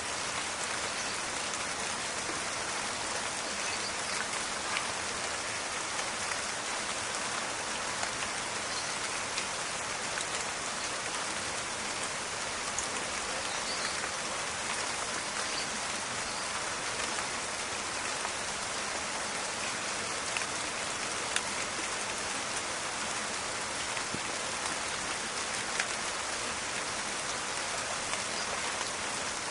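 Steady rain falling in a forest, a dense even patter with scattered sharper drops standing out now and then.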